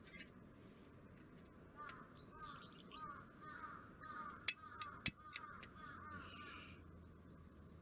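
A crow cawing in a quick series of about ten calls, with two sharp clicks in the middle.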